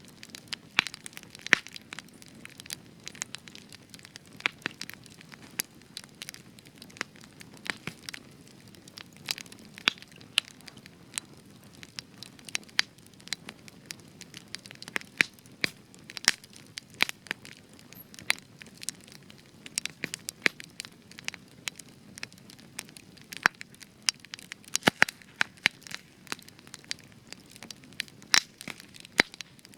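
Spruce wood campfire crackling, with many sharp irregular pops and snaps over a low steady hiss of the flames.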